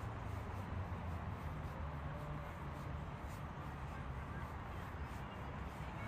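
Outdoor ambience in falling snow: a steady low rumble, with faint, evenly spaced soft crunches of footsteps walking through snow.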